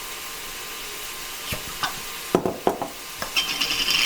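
Ground meat sizzling steadily in a frying pan, then a run of sharp knocks and clinks from about halfway in, with a short rasping scrape near the end, as a glass canning jar of home-canned celery is worked open.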